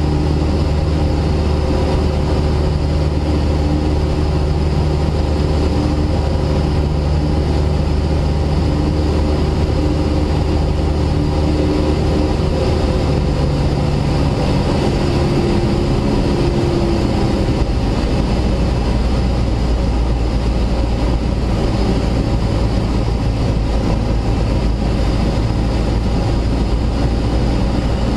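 Cessna 172S's four-cylinder Lycoming engine and propeller droning steadily inside the cockpit, the engine note changing between about 13 and 18 seconds in and settling lower.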